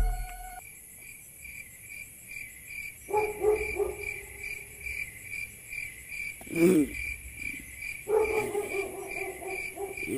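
Crickets chirping in an even pulse, about three chirps a second. A lower sustained sound joins twice, about three seconds in and again near the end, and a brief sound falling in pitch comes about six and a half seconds in.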